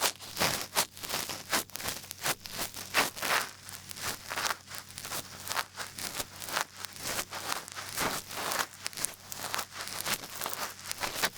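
Large ear pick scraping and scratching close to the microphone: a rapid, irregular run of crackly scrapes.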